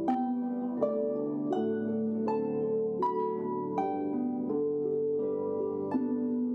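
Lever harps played as a duo: a slow plucked melody with a new note about every three quarters of a second, each ringing out over softer plucked chords below.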